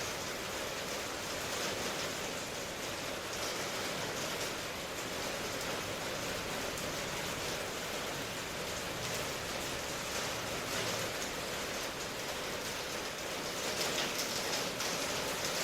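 Steady rain falling, an even hiss with faint patter of drops, swelling a little near the end.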